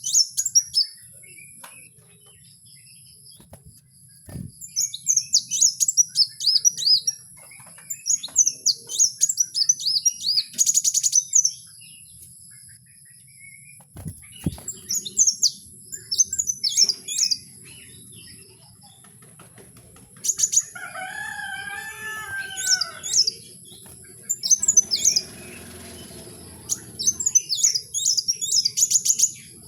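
A bird singing in bouts of quick, high, falling chirps, each bout a second or two long with short gaps between them. About two-thirds of the way through, a lower, drawn-out call joins in.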